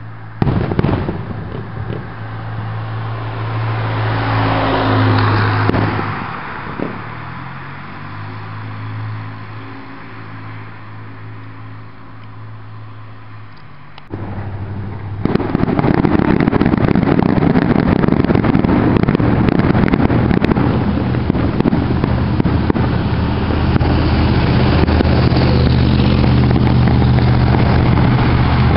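Fireworks going off: a sharp bang, a swelling hiss and a crack, then from about halfway through a long, loud, steady hissing spray. A steady low hum runs underneath.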